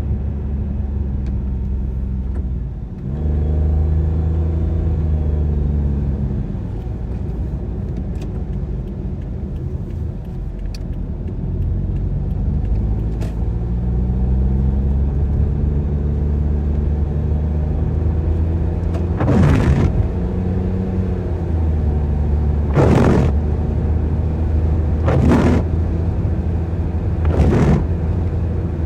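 Car engine running steadily on the move, its pitch dropping and rising with gear changes and acceleration. In the last third, a swish about every two seconds, the windscreen wipers sweeping rain off the glass.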